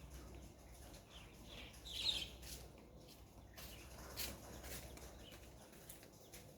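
Faint bird chirping: scattered short calls, loudest about two seconds in.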